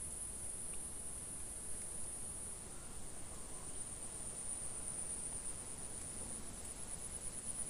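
Insects trilling steadily in one high-pitched band, the trill turning into a fine, rapid pulsing in the second half, over a faint low rumble.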